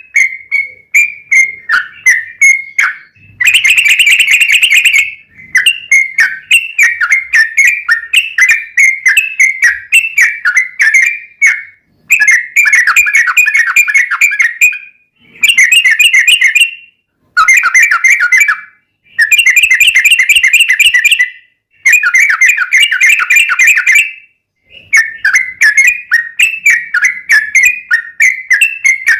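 Yellow-vented bulbul (cucak trucuk) singing a long run of rapid chattering, whistled notes. The notes come in phrases of a second or three, one after another with brief pauses.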